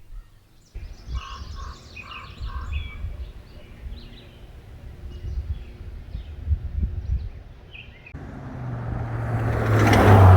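Songbirds singing short repeated phrases over a low rumble. From about eight seconds in, a passing vehicle approaches with a low hum, growing steadily louder and peaking at the very end.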